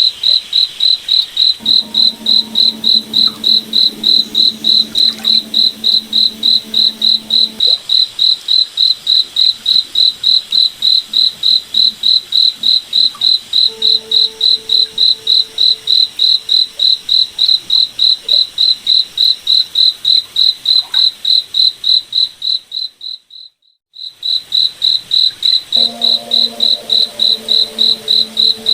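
A cricket chirping steadily in a fast, even rhythm of about three chirps a second, with a low steady hum that comes and goes in the background. The whole sound briefly fades out and back in about 23 seconds in.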